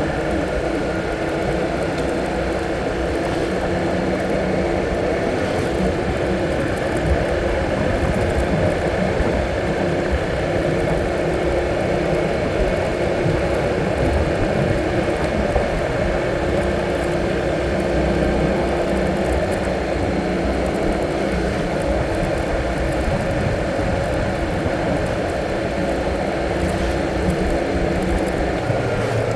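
A motor vehicle's engine running steadily while it is driven, with road and wind noise mixed in and no change in pitch or level. It is a short test drive just after an oil and filter change.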